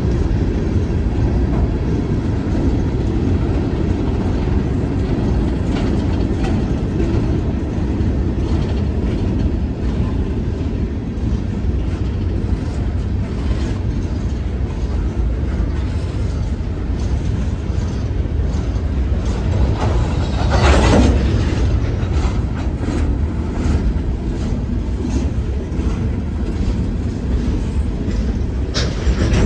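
Freight train rolling past, a steady low rumble of wheels on rail with faint clickety-clack from the cars. A brief louder surge comes about two-thirds of the way through.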